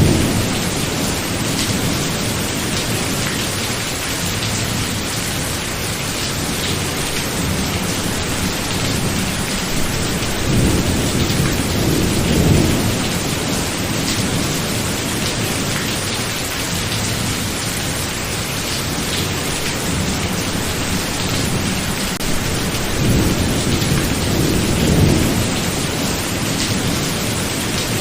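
Thunderstorm: steady heavy rain with rolls of thunder, rumbling up at the start, around a third of the way in and again near the end.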